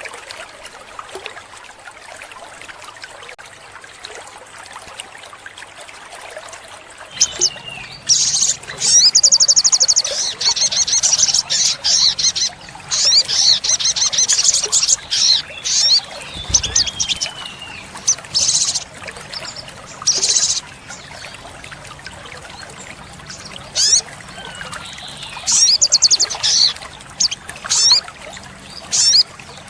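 Olive-backed sunbird singing: high, rapid trills and sharp chirps that start about a quarter of the way in and come in bursts. A faint trickle of water runs under it.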